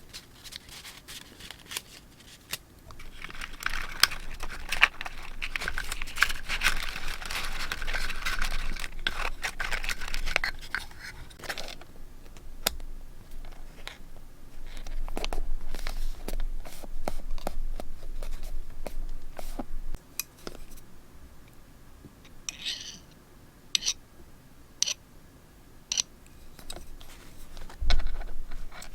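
Paper being handled close up: crinkling and rustling for several seconds, with a tearing quality, then another stretch of rustling. A run of sharp, separate clicks follows near the end.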